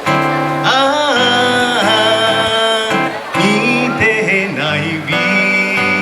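Live song performance: strummed acoustic guitar accompaniment under a melody line that bends and wavers through long held notes.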